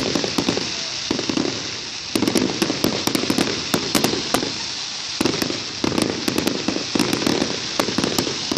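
Fireworks going off: clusters of sharp crackling bangs, one cluster about every second, each with a low rumble beneath.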